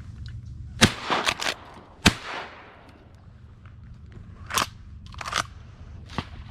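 Shotgun shots: a series of sharp bangs, the two loudest about a second apart with smaller cracks between. A few more come later, over a steady low rumble of wind on the microphone.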